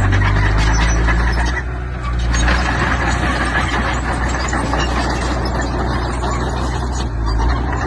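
Diesel engine of heavy earthmoving machinery running steadily under load, dipping briefly about two seconds in and then picking back up.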